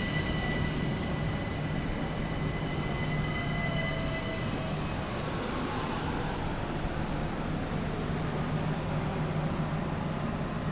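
A pair of Class 375 Electrostar electric multiple units running past: a steady rail rumble with a low hum, and thin high tones that fade about halfway through.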